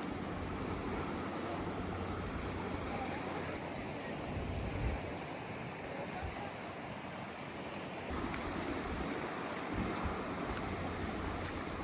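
Steady wash of sea waves, with brief low rumbles of wind on the microphone.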